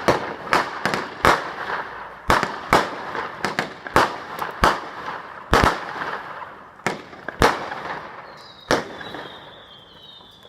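Fireworks going off in a rapid, irregular volley of sharp bangs with crackling in between. The bangs thin out after about six seconds and die away, and a faint high whistle comes in near the end.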